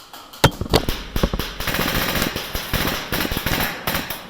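Airsoft guns firing rapid full-auto bursts, a fast mechanical clatter of shots. Two sharp loud cracks come about half a second in and just under a second in, and from about a second and a half in the firing runs on densely with short breaks.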